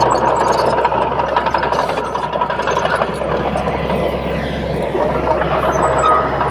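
Komatsu D31P bulldozer's diesel engine running steadily as the machine works.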